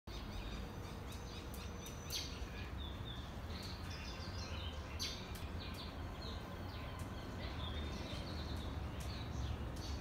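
Small birds chirping: many short, high chirps and tweets scattered throughout, with a few sharper clicks, over a steady low rumble of background noise.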